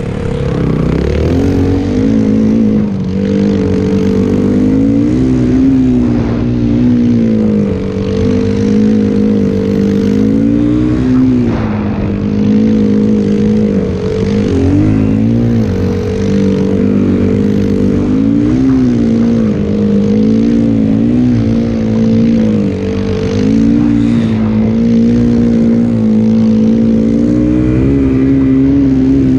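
Yamaha WR450F snowbike's single-cylinder four-stroke engine running under load, its pitch rising and falling every few seconds as the throttle is opened and eased off.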